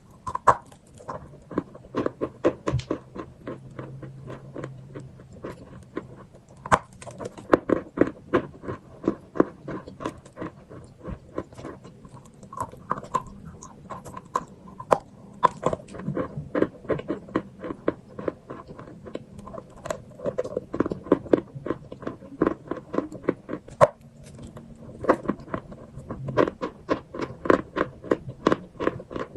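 Close-miked crunching and chewing of chalk with chalk paste: quick runs of crisp, snapping crunches in clusters, with short lulls between bites.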